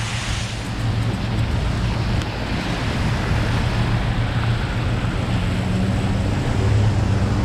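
A motor vehicle's engine running at a low steady hum under a constant hiss of rain and wet-road noise, growing slightly louder.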